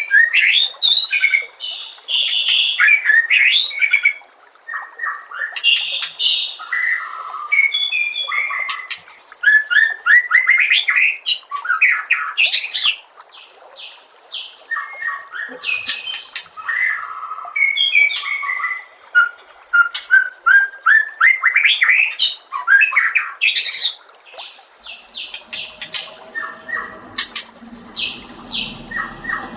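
White-rumped shama (murai batu) singing in fast, varied phrases of rising trills, loud whistles and harsh notes, broken by short pauses. A lower sound comes in near the end.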